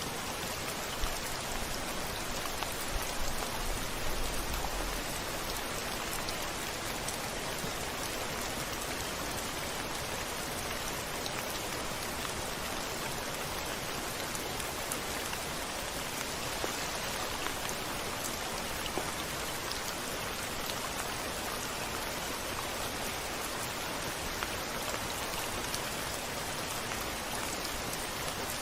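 Steady rain on a window pane, an even hiss with scattered sharp drop ticks. A low rumble of thunder sits under it from about one to five seconds in.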